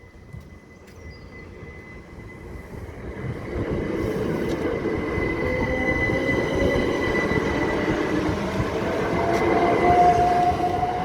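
A train comes through the level crossing, growing louder over the first few seconds and then running on steadily, with a whine that slowly rises in pitch. A steady high tone sounds throughout.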